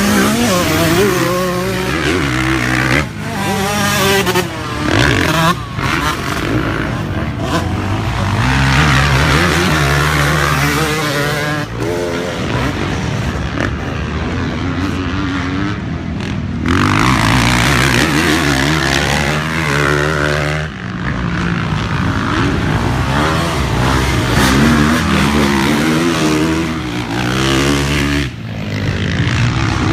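Several motocross dirt bikes racing, their engines revving up and down over and over as they accelerate and shift, with more than one bike often heard at once.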